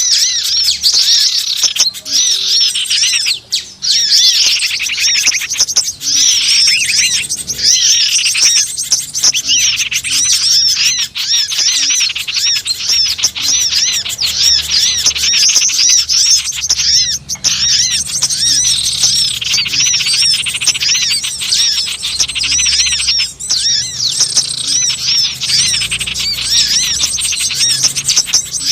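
Dense chorus of many small wild birds chirping and twittering, with calls overlapping without pause. It is a bird-luring (pikat) call recording, played to draw wild birds in.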